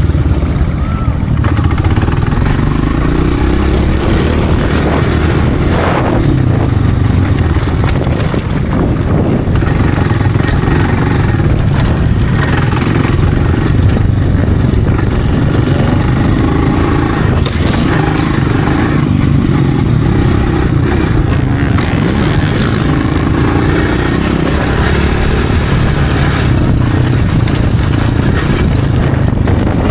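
Motocross dirt bike engine running hard throughout, its pitch rising and falling again and again as the throttle opens and closes.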